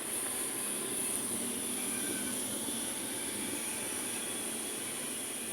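Steady roadside city traffic noise from buses, cars and motorbikes passing, with a constant high hiss over it.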